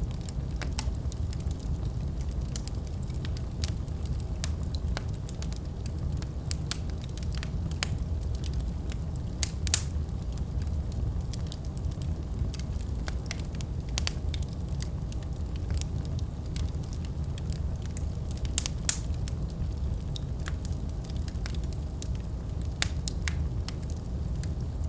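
Fireplace fire crackling, with irregular sharp pops over a steady low rumble of flames; a few louder pops come about ten seconds in and again around three quarters of the way through.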